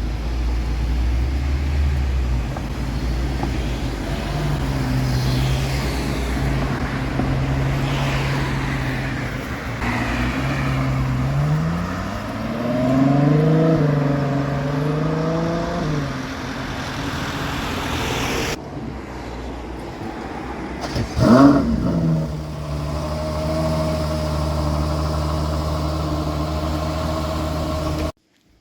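Ferrari 12Cilindri Spider's 6.5-litre F140 V12 running, its pitch rising and falling through the middle. About three-quarters through it gives one short, sharp rev, then it settles back to a steady note.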